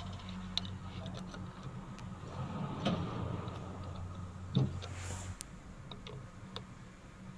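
Scattered light metallic clicks and taps of small engine parts and hand tools being handled during scooter engine assembly, over a low steady hum that cuts off about five seconds in.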